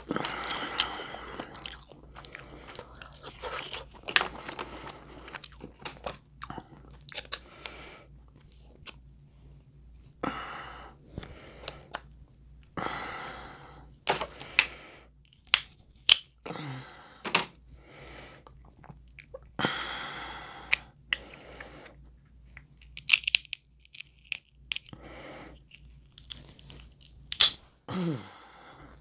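Close-miked chewing and crunching of seafood boil crab legs, with sharp cracks and clicks of shell and mouth noises scattered irregularly throughout.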